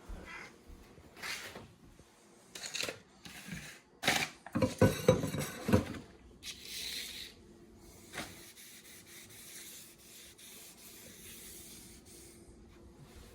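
A spoon scraping and clinking against a can and dish while wet cat food in gravy is served: a run of short scrapes, busiest and loudest with clatter about four to six seconds in, then a brief hissing rush before it goes quiet.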